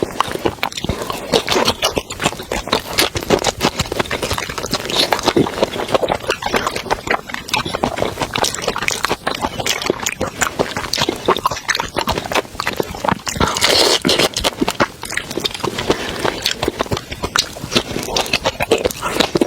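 Close-miked mouth sounds of eating seafood: wet chewing with a dense run of quick clicks and crunches.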